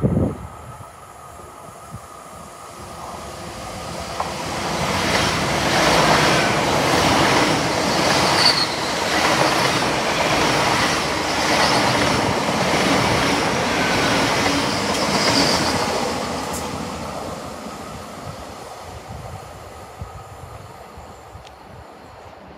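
Passenger train passing close by: wheel and rail noise builds over a few seconds, stays loud for about ten seconds with a steady clickety-clack rhythm as the wheels cross the rail joints, then fades as the train moves away.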